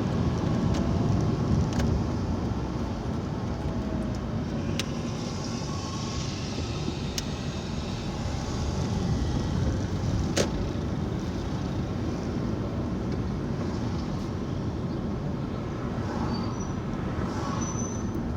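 Car driving along, heard from inside the cabin: a steady rumble of engine and road noise, with a few light clicks, the sharpest about ten seconds in.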